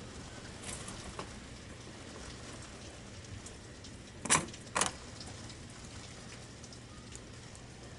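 Steady pouring rain, with two loud sharp knocks about half a second apart near the middle.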